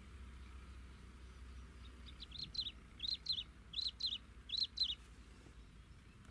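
A bird calling: about four quick pairs of short, high chirps, one pair roughly every three-quarters of a second, starting about two seconds in and stopping near five seconds. A faint low hum of the outdoor background lies under the calls.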